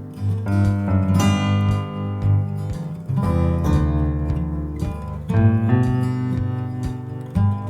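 Acoustic guitar strumming chords in an instrumental passage of a song, the chord changing every couple of seconds.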